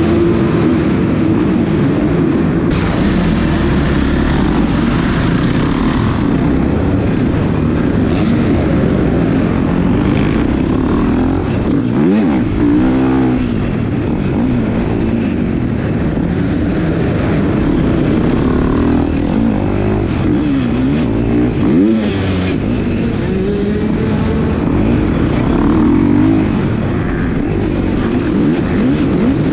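Dirt bikes running on an arenacross track, their pitch rising and falling as they rev and back off through the course. A hissing burst comes a few seconds in.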